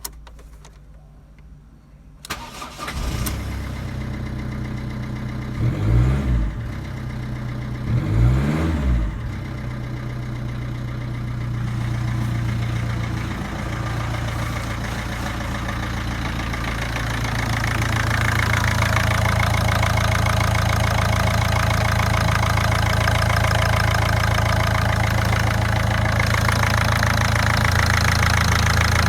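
Ford 1.4 TDCi (F6JB) four-cylinder diesel engine starting about two seconds in. It is blipped twice, rising and falling quickly, then settles into a steady idle that gets a little louder in the second half.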